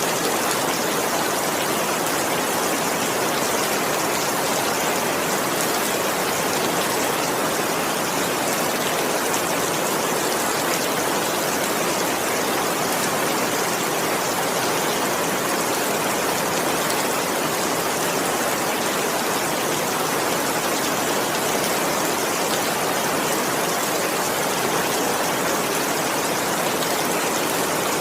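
Heavy rain falling in a steady, even downpour, a dense patter with no thunder.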